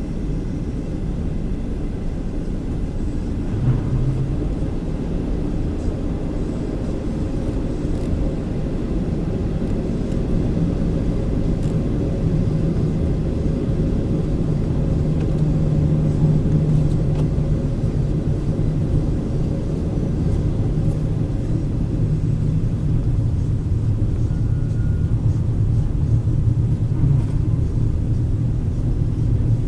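CRH6A intercity electric multiple-unit train running at speed: a steady low rumble with a low hum.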